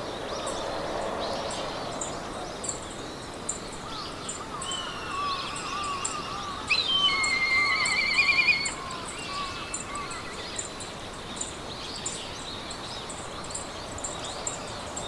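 Meadow ambience: several birds singing, with a loud trilling song for about two seconds a little before the middle, over a steady hiss of wind in grass. A high insect chirp repeats about twice a second throughout.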